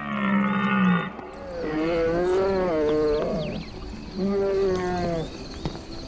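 An animal calling: several long calls in a row, each about a second or two, their pitch wavering up and down.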